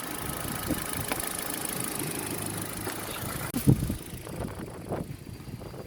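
Ford Focus II engine bay with the engine idling and the electric radiator cooling fan running. The steady running noise cuts off abruptly about three and a half seconds in, with a thump, leaving a quieter background with scattered clicks.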